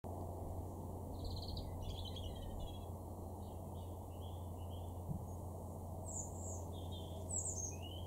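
Small songbirds chirping and singing in short, scattered phrases, over a steady low background noise.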